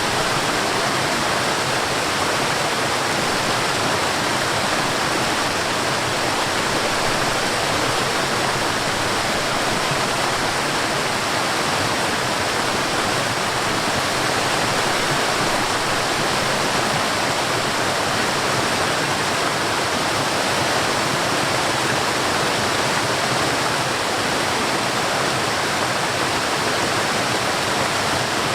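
Forest waterfall: water falling and rushing in a steady, unbroken roar of even noise.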